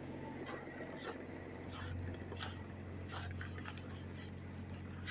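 BMW F10 530xd's straight-six diesel idling after a cold start at −11 °C: a steady low hum, with a few sharp clicks over it.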